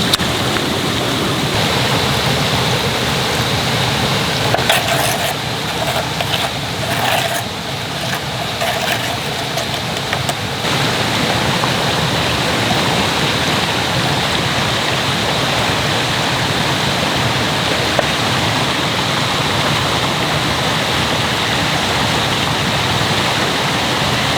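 Mountain stream rushing steadily over rocks, a loud even wash of water. A few light clicks and knocks come in the first half.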